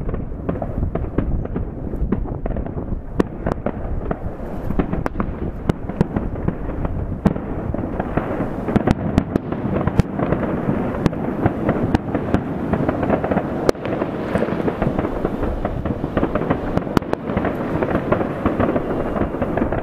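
Fireworks going off in the distance: a continuous rumble of many overlapping bursts, with sharp cracks and pops scattered throughout, growing denser and louder about halfway through.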